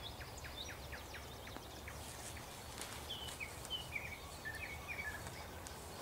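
Several songbirds chirping and twittering: many short, quick high notes, some sweeping downward, over a steady low rumble.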